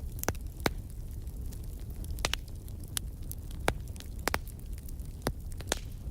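Wood fire crackling: irregular sharp pops and snaps from burning firewood over a steady low rumble of the flames.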